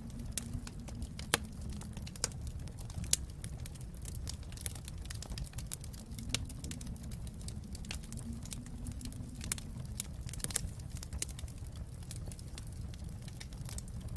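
Wood fire crackling in a fireplace: irregular sharp pops and snaps over a low steady rumble, with a few louder pops in the first few seconds.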